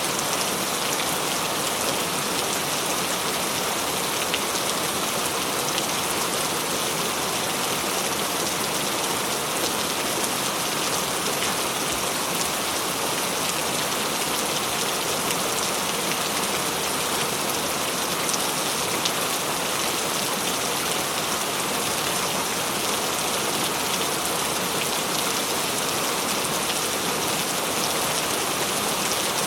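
Steady heavy rain falling and pattering on surfaces, a constant even hiss with scattered individual drop ticks.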